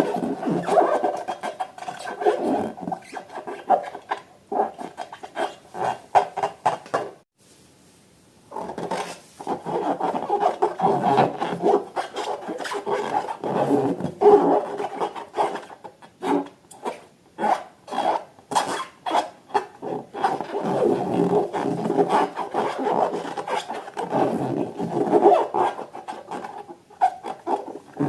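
Hands working balloons and slime: continuous rubbing and rasping with many small sharp clicks, broken by a pause of about a second and a half about a quarter of the way in.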